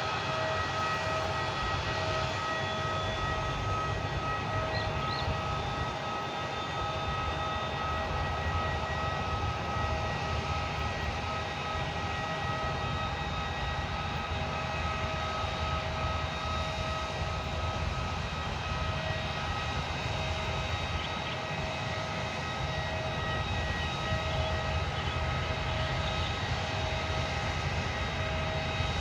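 Airliner engines running steadily at idle: a constant high whine over a low rumble, with no rise or fall in power.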